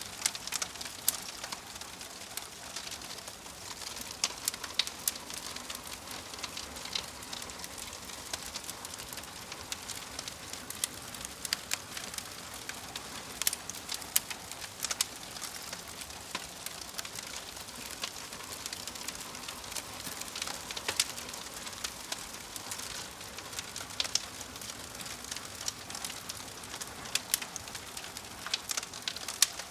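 Wood logs burning in a fireplace, crackling steadily with frequent sharp, irregular pops over a soft hiss.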